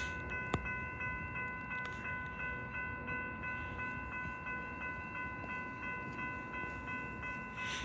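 Metra commuter train at the station platform: a steady low rumble with a steady high whine of several tones held throughout, and a single click about half a second in.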